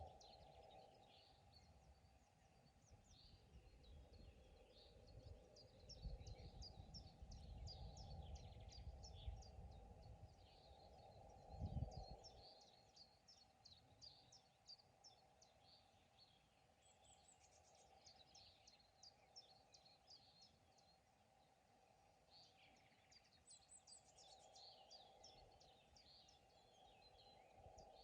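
Small birds chirping and trilling steadily over a faint pond-side background, quiet overall. A low rumble runs under them for the first half, swells to its loudest about halfway through, then fades out.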